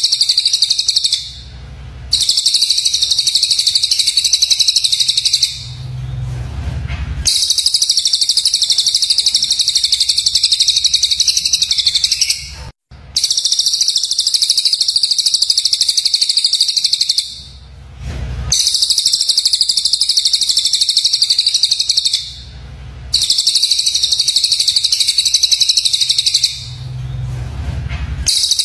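Songbird calls from a looped bird-song training recording: a rapid, harsh, high-pitched chattering trill held for several seconds at a time, broken by brief pauses about every four to five seconds, with a low rumble in some of the pauses.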